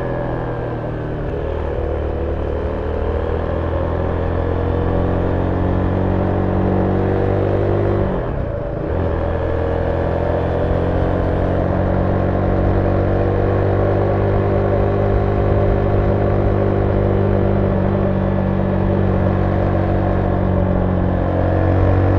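Zontes 310V motorcycle's single-cylinder engine running through its stock exhaust, heard from on board while riding, its note rising gradually under throttle. About eight seconds in, the engine note dips briefly before pulling on steadily.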